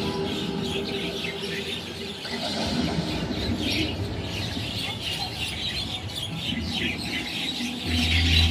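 A dense flock of birds calling at once, many short chirps and squawks overlapping continuously. A low steady hum comes up near the end.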